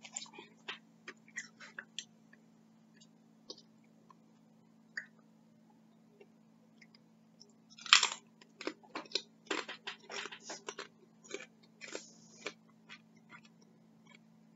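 Close-up eating sounds: scattered mouth clicks and chewing, then a loud crunch about eight seconds in and a run of crunching for a few seconds as a tortilla chip is bitten and chewed.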